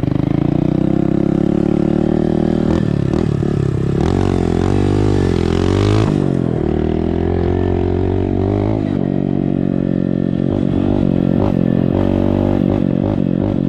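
Honda dirt bike engine through an open exhaust with no silencer insert, running hard as the bike is ridden, its pitch rising and falling with the throttle and wavering most around the middle. Scattered clattering knocks sound over it.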